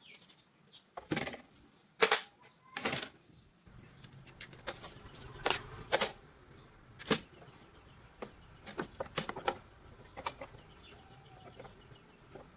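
Irregular sharp clicks and knocks, a dozen or so at uneven intervals, the loudest about two seconds in, over a faint low hum.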